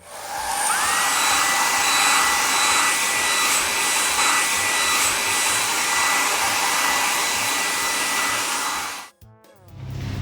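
Electric air blower, like a car-wash dryer: its motor whines up in pitch in the first second, then runs steady under a strong rushing hiss, and cuts off suddenly about nine seconds in.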